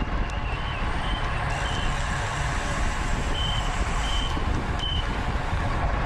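Steady wind rumble over a bicycle-mounted camera microphone while riding in a criterium, with a series of short, high-pitched beeps repeating about once or twice a second.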